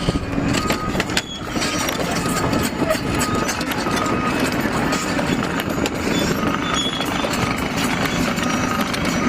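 Liebherr excavator running on a work site: steady diesel engine noise with clatter near the start, and short high beeps repeating about once a second.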